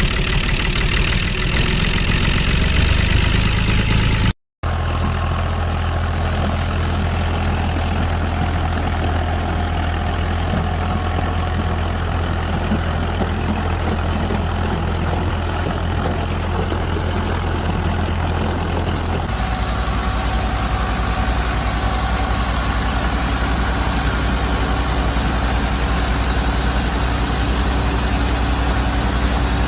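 Small motor of a DIY model tractor running with a steady low hum. The sound cuts out for a moment about four seconds in, and its low drone shifts about nineteen seconds in.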